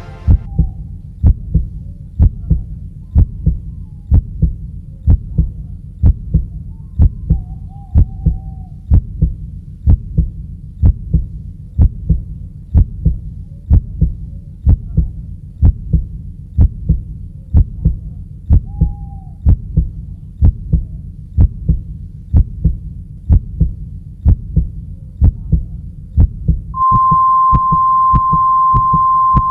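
An even run of low, heartbeat-like thumps, about one a second. About 27 s in, a steady high beep starts over them and runs on.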